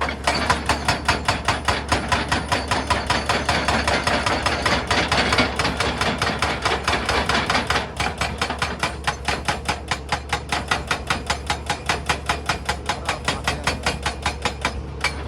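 Excavator-mounted hydraulic breaker hammering rock: rapid, evenly spaced blows, about five a second, over the steady low hum of the machine. The hammering starts abruptly and stops just before the end.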